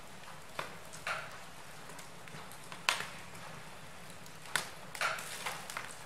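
Wood fire crackling in a fireplace: irregular sharp pops and snaps over a low steady hiss, with the loudest pop about three seconds in and a quick cluster of them near the end.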